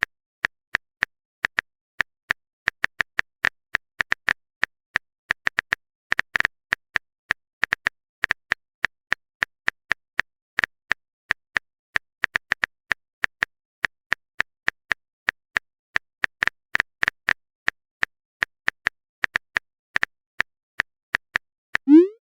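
Phone keyboard typing clicks: short, sharp taps at an uneven pace, a few a second, as a text message is typed out. Near the end there is a quick rising swoop.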